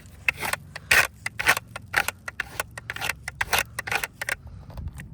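Quick, irregular scraping and scuffing strokes against asphalt composition shingles, a few each second.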